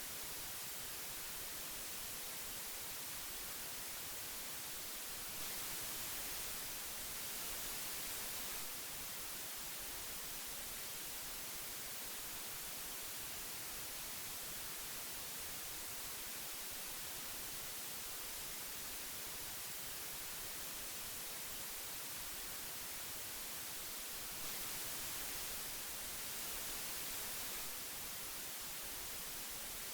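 Steady hiss of old magnetic tape playback, an even noise weighted toward the highs, swelling slightly twice.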